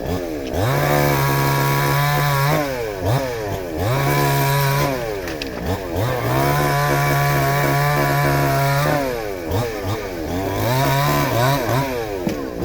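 A small engine revved hard four times. Each rev rises quickly to a steady high pitch, holds it for one to three seconds, then drops back; the longest hold is in the middle.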